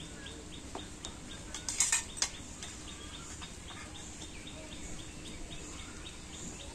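A bird chirping in a fast, even series, about five chirps a second. About two seconds in, a few sharp clinks of steel bowls and a serving spoon.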